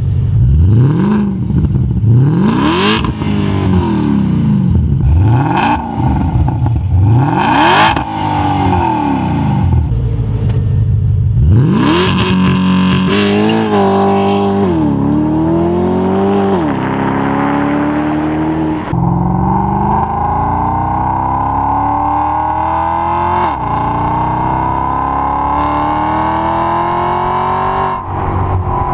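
Porsche Panamera 4S engine through an Armytrix F1 Valvetronic valved exhaust, revved up and dropped back several times in quick blips. About halfway through it accelerates, with gear changes showing as sudden drops in pitch, then a long rising pull with one more shift near the end.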